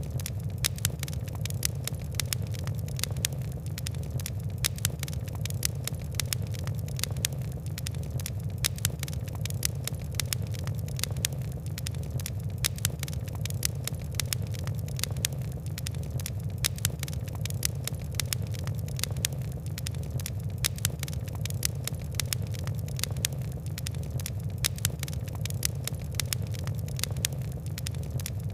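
Fire crackling: a dense, continuous run of small sharp pops and ticks over a steady low rumble of the flames.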